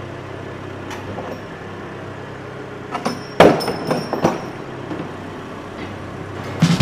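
A steady machine hum, with a cluster of loud metallic clanks and knocks about three to four and a half seconds in and another knock at the very end.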